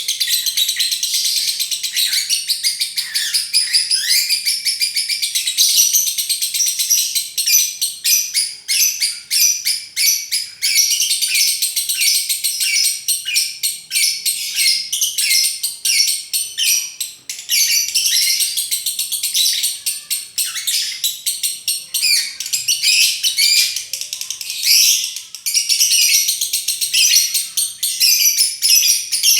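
Lovebird singing a long, almost unbroken run of rapid high chattering and trilling, the continuous 'konslet' song style, broken only by a couple of short pauses.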